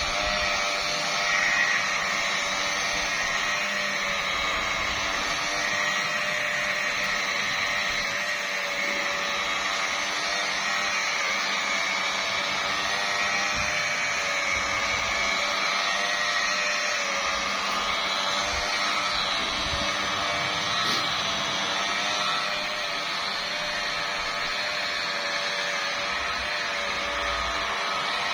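Electric car polisher running at its lowest speed setting, a steady motor whine with a slight waver in pitch, as its pad buffs polishing compound into a car's bonnet paint.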